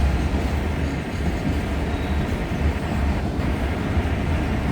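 Freight train of empty auto-rack cars rolling steadily past at slow speed, with a heavy, steady low rumble of wind buffeting the microphone.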